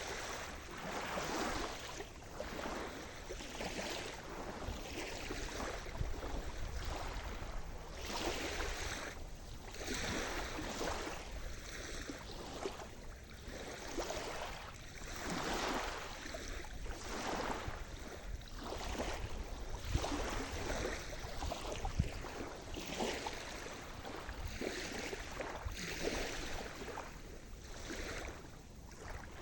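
Sea surf: small waves breaking and washing in one after another, every second or two, over a steady wash of water noise.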